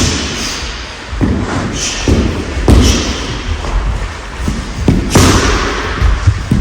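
Punches and kicks landing on a rolled-up training mat: a series of irregular dull thuds in a large echoing hall.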